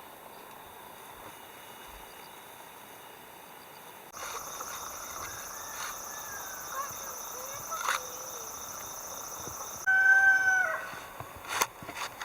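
A rooster crows once near the end: a loud call that holds its pitch and then drops away. Before it, a steady high drone starts suddenly about four seconds in and stops just before the crow.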